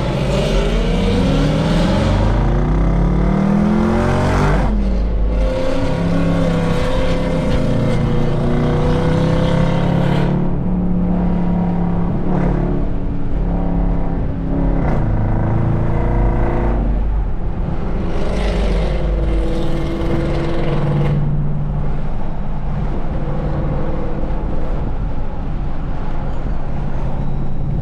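A 5.0 V8 with full bolt-ons and headers, revving loudly. Its pitch climbs over the first four or five seconds, then it is held and varied through several further revs.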